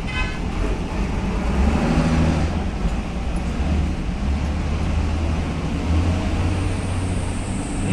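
Road vehicle noise: a steady low engine-and-tyre rumble, with a brief high-pitched squeak right at the start.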